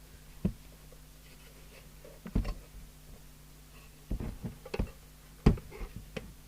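A series of sharp knocks and short clatters as the CB radio's powder-coated case is handled and put back together with its screws, loudest about five and a half seconds in, over a steady low hum.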